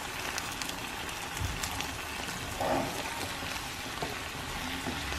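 Beef and broccoli stir-frying in a nonstick frying pan: steady sizzling as the food is stirred with a spatula, with a few light scrapes and taps.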